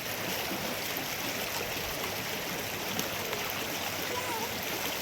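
Steady rushing water: a dense, even hiss with a few faint ticks in it.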